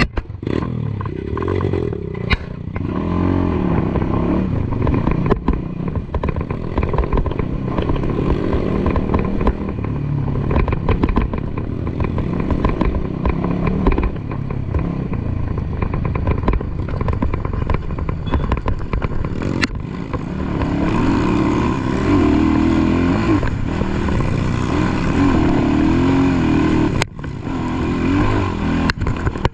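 Dirt bike engine revving up and down hard under load on a steep climb, with a few sharp knocks and clatter along the way.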